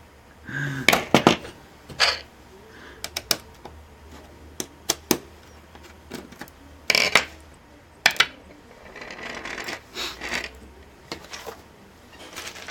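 Hands working on the opened laptop's metal and plastic parts: irregular small clicks, taps and clinks, with a few louder knocks.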